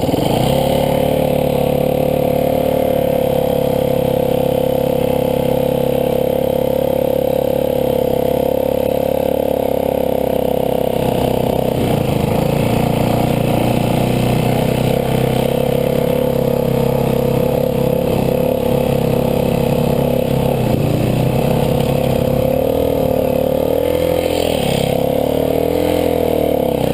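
Dirt bike engine running at a steady pitch under way, with a few quick rises and falls in revs near the end.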